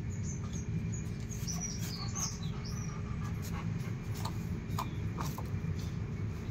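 Small birds chirping in short high calls over a steady low rumble. A few light clicks come about five seconds in.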